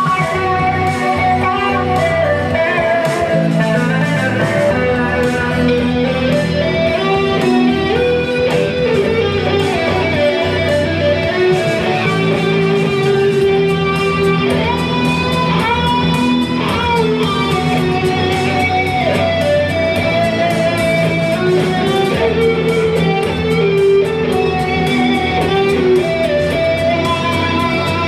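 Live band playing an instrumental passage led by electric guitar, over bass and drums with a steady cymbal beat; the guitar bends notes about halfway through.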